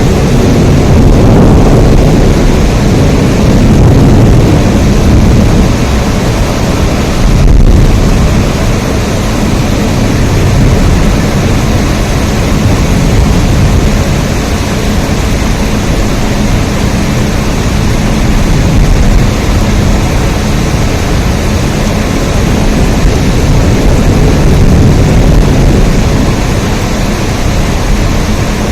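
Steady heavy rain, a dense unbroken hiss with a strong low rumble underneath. There is a brief dropout about seven and a half seconds in.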